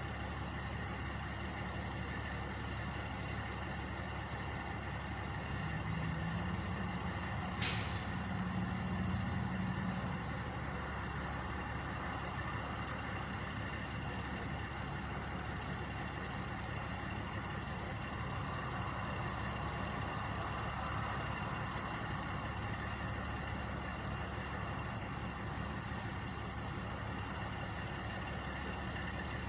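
Truck engines idling steadily, swelling slightly for a few seconds, with one brief sharp sound about eight seconds in.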